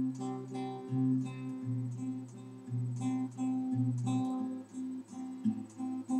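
Acoustic guitar strummed in a steady rhythm, playing an instrumental passage of a slow song between sung lines.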